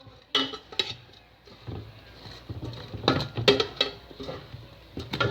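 Kitchen utensil clinking and scraping against a pan or dish in a series of irregular sharp knocks, as stuck-together fries are handled.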